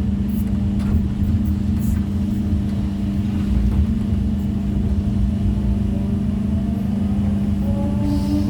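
Excavator's diesel engine running steadily, with a higher whine rising and gliding near the end as the machine works its hydraulics.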